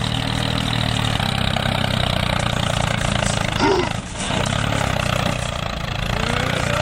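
A small engine running steadily, with a short rising-and-falling whine starting near the end.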